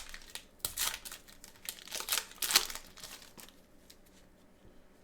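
Plastic wrapping crinkling and tearing as a sealed box of trading cards is opened: a run of rasping tears in the first three seconds, the loudest about two and a half seconds in, then quieter handling.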